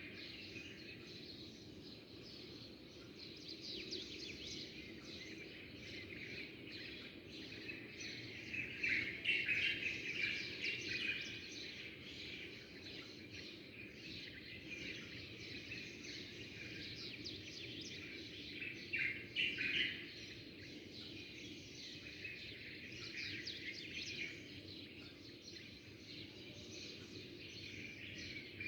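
A chorus of small birds chirping and twittering together, with louder flurries of calls about nine to eleven seconds in and again around nineteen seconds in, over a steady low background noise.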